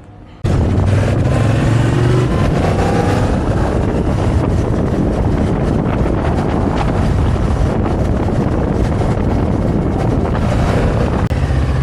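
Motorcycle riding at speed, the engine's steady hum under heavy wind noise on the microphone; it cuts in suddenly half a second in, and the engine pitch rises briefly a couple of seconds later as it accelerates.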